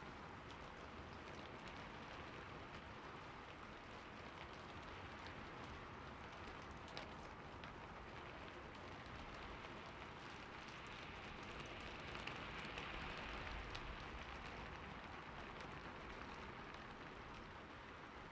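Steady rain falling on a roof, an even patter with scattered individual drops ticking, swelling slightly a little past the middle.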